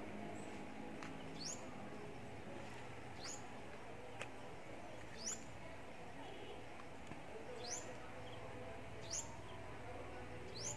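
A small bird calling: a short, high chirp that sweeps upward, repeated six times about every one and a half to two seconds, over faint steady background noise.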